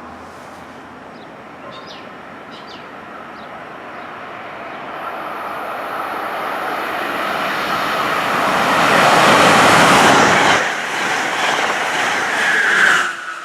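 Electric passenger train passing at speed: a rush of wheel and air noise that builds over several seconds to its loudest about nine to ten seconds in, then cuts off suddenly near the end.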